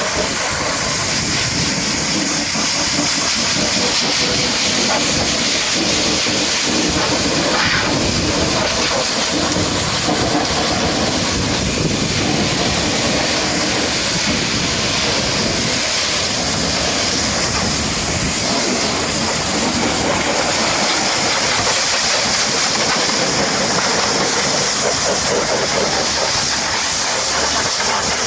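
High-pressure washer jet spraying water onto a truck: a loud, steady hiss.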